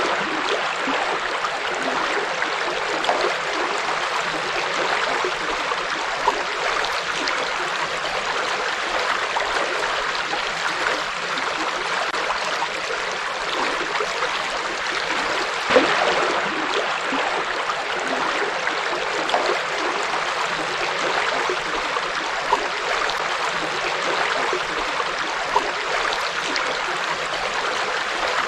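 River water flowing and splashing steadily over rocks, with small splashes and gurgles now and then.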